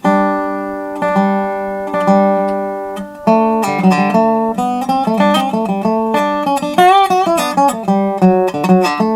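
Dobro (resonator guitar played flat on the lap with a metal bar) starting a tune: three ringing chords about a second apart, then a quicker run of notes with a wavering, sliding pitch about seven seconds in.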